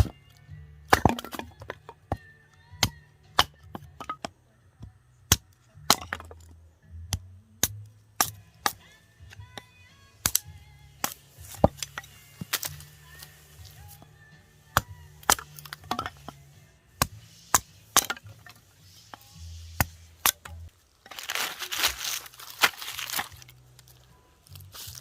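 Firewood being chopped and split: a long run of sharp cracks and knocks of wood, irregular, about one a second, with a rougher rasping stretch about 21 seconds in. Background music plays underneath.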